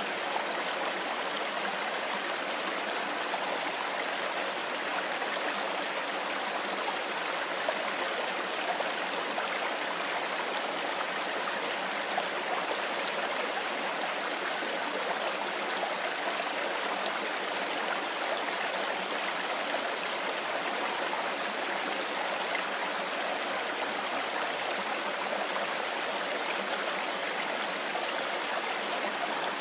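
A mountain river rushing and babbling over stones, a steady, even flow of water noise.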